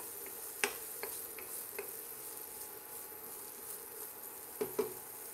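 Diced onion sizzling softly in oil in a copper-coloured frying pan while a wooden spoon stirs it, being sweated until translucent. A few light knocks of the spoon against the pan stand out, one about half a second in and a quick pair near the end.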